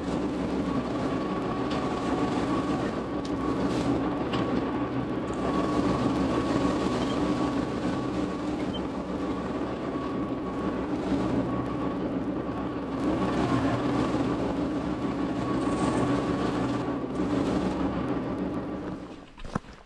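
Solis H24 compact tractor's diesel engine running steadily, with a continuous clatter, cutting off abruptly near the end.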